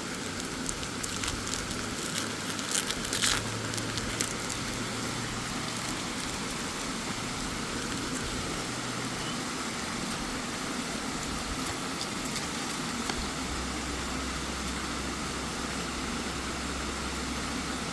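Steady rushing of a waterfall, with a few sharp clicks in the first few seconds.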